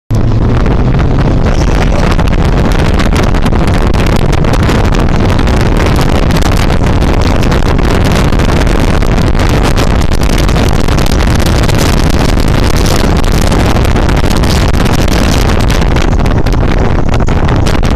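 Motorcycle running at speed under heavy wind noise on the microphone, a loud steady rush.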